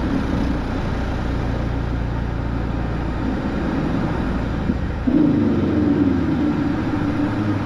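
Cockpit noise of a Boeing 727-200 on climb-out just after gear-up: the steady rumble of its three JT8D turbofans and the airflow. The low rumble drops off about three and a half seconds in, and a louder hum starts suddenly about five seconds in and holds.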